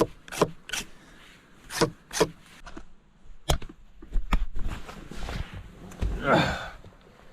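Bark being scraped off a green stick with a knife, about six short separate strokes, followed about six seconds in by a brief pitched sound.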